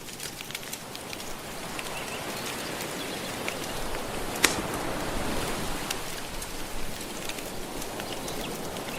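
Soft ocean waves washing steadily with a wood fire crackling over them, scattered small pops and one loud snap about halfway through.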